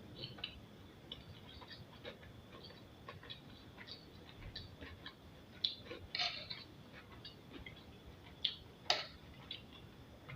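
Eating sounds: a spoon or fork clicking and tapping against a plate of abacha, with faint chewing between, the sharpest clicks about six and nine seconds in.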